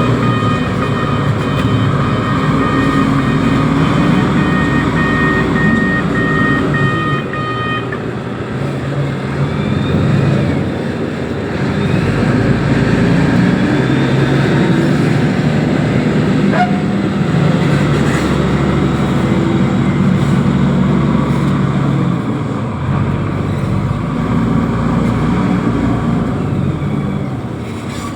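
Heavy diesel engine of a container-handling machine, likely a reachstacker, running and working, its pitch rising and falling with load. For about the first eight seconds a warning beeper sounds in repeated pulses.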